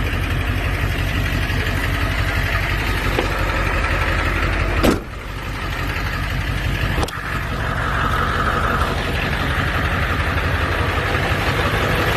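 A 7.3 L Power Stroke turbo-diesel V8 idling steadily. A sharp knock is heard about five seconds in and another about two seconds later.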